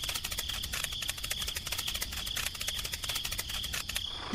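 Insects chirping in a fast, even pulse over a steady high tone, breaking off near the end.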